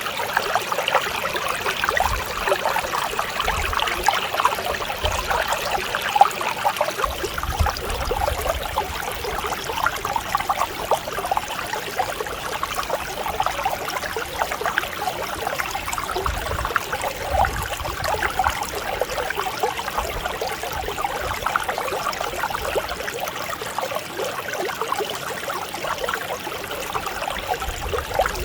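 Mountain stream flowing over rocks: a steady, continuous babble and trickle of clear water.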